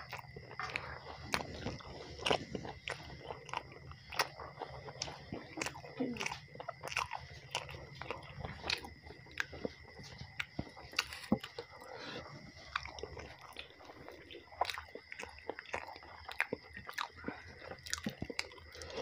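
Close-miked eating sounds: a person chewing roti with mashed potato (aloo bharta), with many short, irregular wet clicks and lip smacks.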